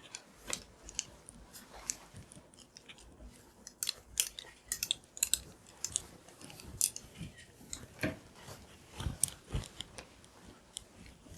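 Irregular light clicks, crackles and rustles, as of objects being handled at close range in a small room, with a few dull knocks near the end.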